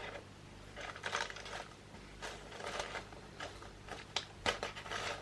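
Cardboard gift box and its ribbon-tied packaging being handled: bursts of rustling, then a few sharp taps about four seconds in.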